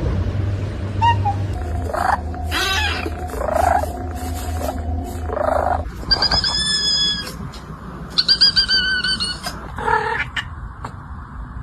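A cat making a string of short mews, then two longer high-pitched calls, the second one wavering, and another short mew near the end.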